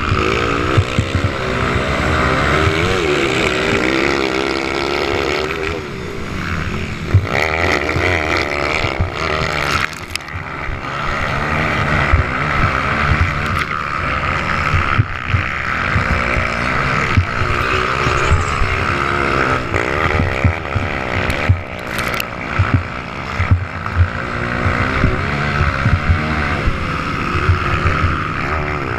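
Several motocross bikes racing on a dirt track, their engines revving up and down as they accelerate and shift, the pitch rising and falling over and over and overlapping from bike to bike.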